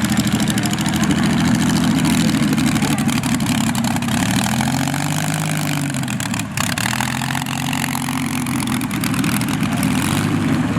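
A vehicle engine running steadily at idle. Around the middle its speed rises and falls back once, in a brief rev.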